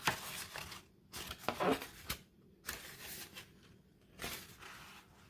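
A folded sheet of paper being handled and pressed, rustling and crinkling in four short bursts.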